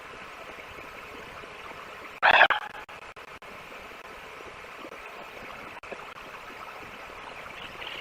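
Steady outdoor hiss with one short, loud animal call a little over two seconds in.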